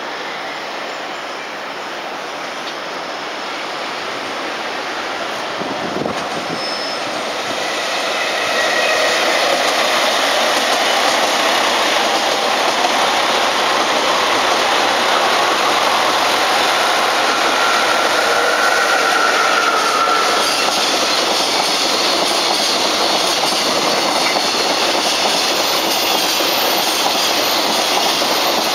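Electric train growing louder over the first several seconds, then running past steadily with wheels clacking over rail joints and a brief wheel squeal near the middle.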